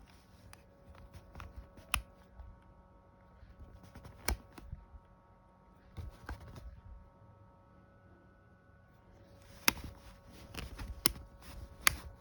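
Scattered sharp clicks and knocks of something being handled, a few isolated at first and then several close together near the end, over a faint steady hum.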